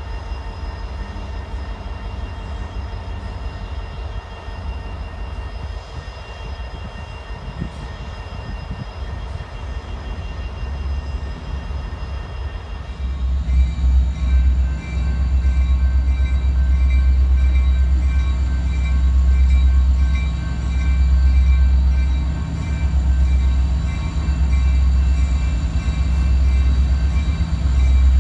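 Freight train rolling past with a steady low rumble, growing clearly louder about halfway through.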